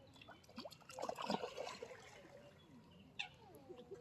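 Ducks splashing and dabbling at the water's surface, with a flurry of splashes about a second in.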